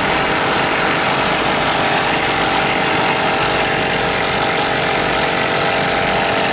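A machine running steadily at a constant pitch, with a steady hum over a broad noise.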